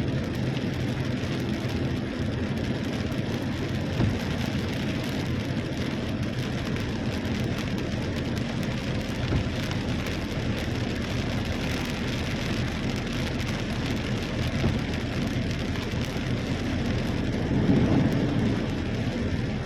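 Heavy rain falling in a steady hiss, with a low rumble swelling briefly near the end.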